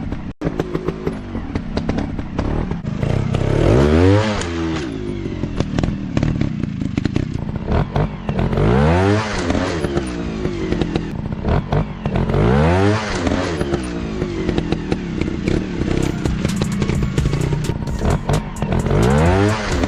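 Dirt bike engines running, revved up and eased off in about four bursts, with frequent knocks and clatter.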